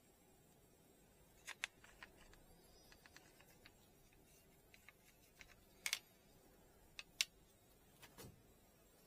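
Scattered small clicks and light taps from objects being handled on a work surface, over near silence; the sharpest pair comes about seven seconds in.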